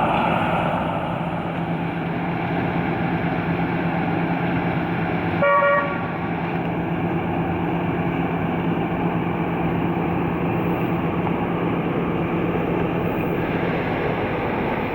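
A 1977 Chevrolet Corvette's 350 small-block V8 running steadily, with one short honk of a car horn about five and a half seconds in.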